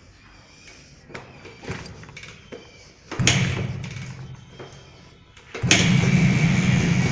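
Suzuki AX 100's single-cylinder two-stroke engine being kick-started after more than a year unused: a few knocks from the kickstart, a first firing about three seconds in that fades away, then the engine catches near the end and runs steadily.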